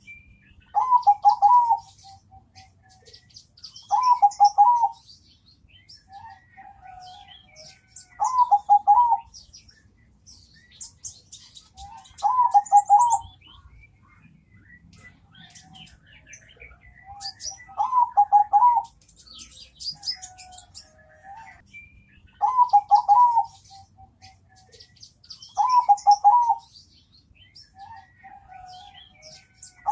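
Zebra dove (perkutut) cooing its song: a short phrase of rapid notes, repeated seven times about every four seconds. Faint high chirping of other small birds runs underneath.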